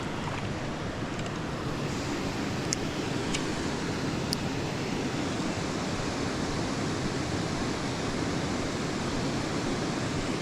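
Steady rushing of flowing creek water, an even hiss with no change in level, with a few faint ticks about a third of the way in.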